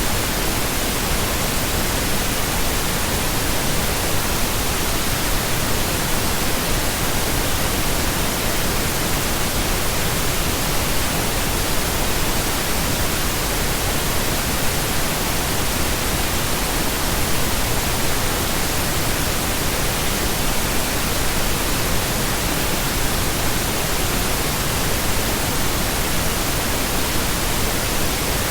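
Steady, unchanging pink noise: an even hiss spread across all pitches, with no breaks or events.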